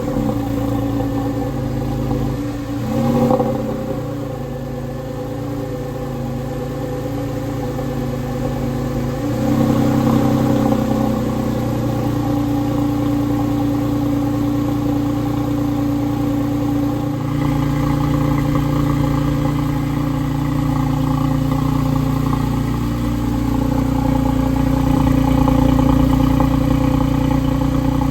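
Porsche 996 Carrera 4S's 3.6-litre flat-six, fitted with an NHP crosspipe exhaust, running at a fast idle just after a cold start. There is a brief rise in revs about three seconds in, and the idle pitch steps up and down a few times.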